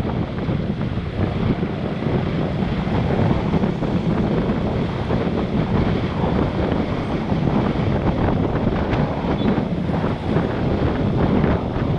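Wind buffeting the microphone of an action camera on a moving motorbike, over the steady running of the bike and the road traffic around it.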